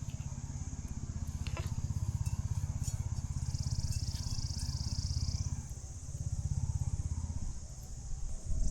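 Outdoor evening ambience: a low, rapidly pulsing hum under a steady high insect chirr, with a second, lower insect buzz joining for about two seconds near the middle.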